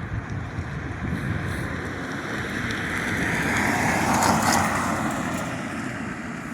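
A vehicle passing by: a rushing sound that swells to a peak about four seconds in and then fades away.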